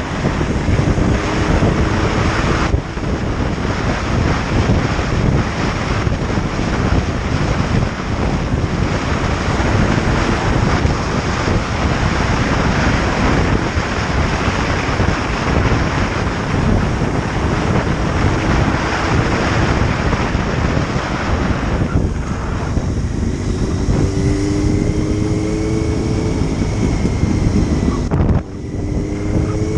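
Motorcycle ridden at speed: loud wind rushing over the microphone almost buries the engine. Near the end the wind eases and the engine's note comes through, rising in pitch, with a brief dip about 28 seconds in before it climbs again.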